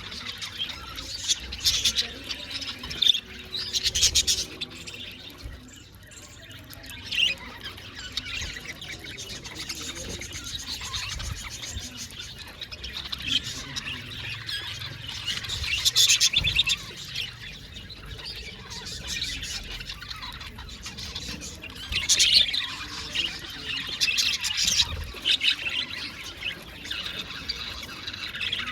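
Budgerigars chirping and chattering, with louder bursts of squawky chirps every several seconds.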